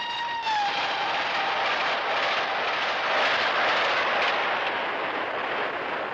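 Steam locomotive whistle held on one note, dipping in pitch and cutting off about half a second in. A steady loud rushing noise of the express train running past at speed follows, easing a little near the end.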